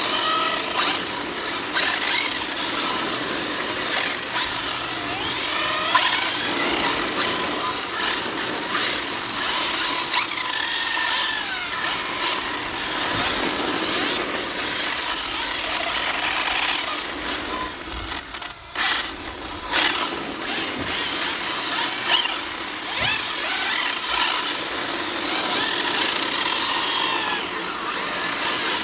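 Exceed RC Mad Drift 1/8-scale electric drift cars running, their brushless motors whining up and down in pitch as the throttle is blipped and let off.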